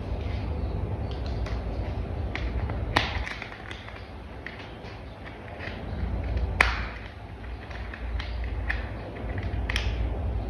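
Plastic toy parts handled and fitted together: scattered clicks and taps, three of them sharper and louder than the rest, over a low steady rumble.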